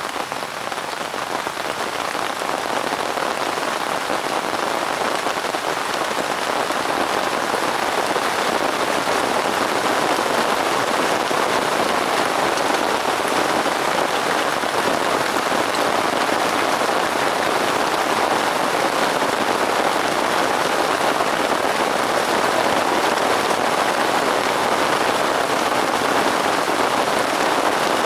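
Steady rain falling on a surface: a dense, even hiss of drops that grows a little louder over the first few seconds and then holds steady.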